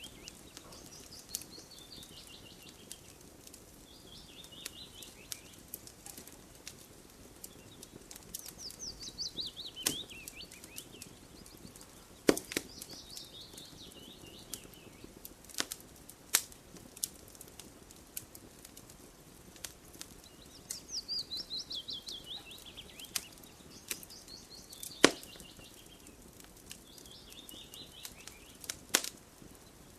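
Wood fire crackling, with sharp pops every second or two and a few louder snaps. Over it a bird sings short, high trills that fall in pitch, several times.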